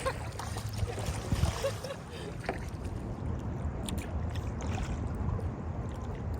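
Water splashing and dripping around a kayak being paddled, with scattered small ticks of drips and paddle contact over a low steady rumble.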